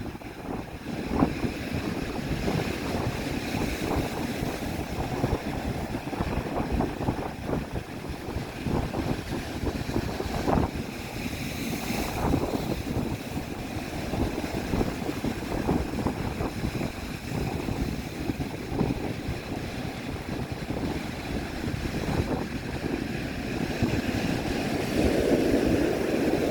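Strong wind buffeting the microphone over the rush of breaking surf.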